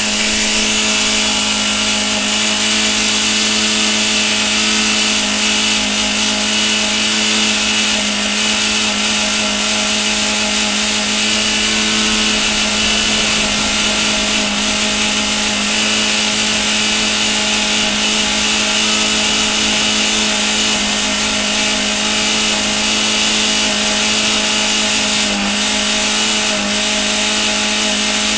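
Škoda engine held at steady high revs, an unchanging loud drone, while it is deliberately run to destruction with minimum oil and a dry cooling system.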